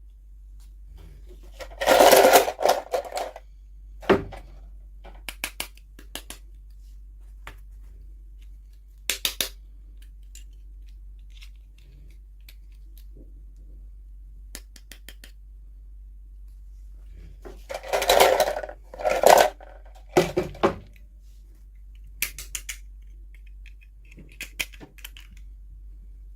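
Toy packaging being handled and opened: two loud bursts of crinkling and clicking, about two seconds in and again around eighteen seconds in, with scattered single taps and clicks between.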